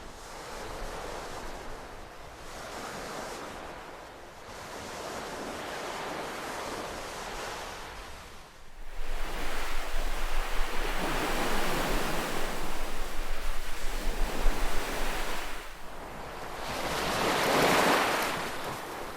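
Ocean waves breaking and washing ashore in slow swells: a few softer washes, then a louder wave that surges about halfway through and another that peaks near the end.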